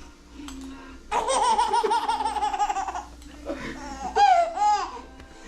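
Baby laughing: a long run of quick, high-pitched belly laughs, about six a second, then a second, shorter burst of laughter about four seconds in.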